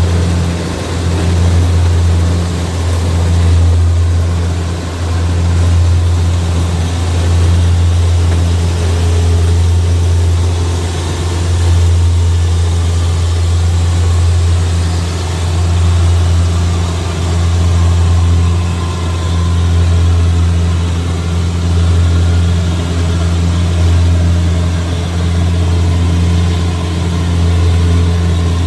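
Kubota DC-70G Plus combine harvester's diesel engine running steadily, a deep even drone that swells and eases slightly every couple of seconds.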